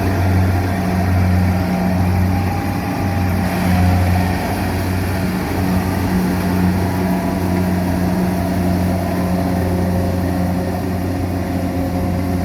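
Rice combine harvester's engine running steadily, a loud continuous low hum.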